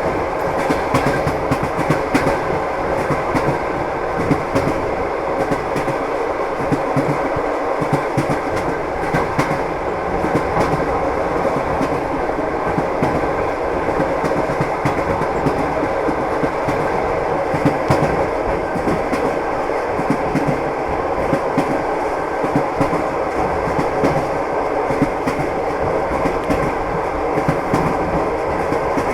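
Moving train: a steady rumble with the clickety-clack of the wheels knocking over the rail joints.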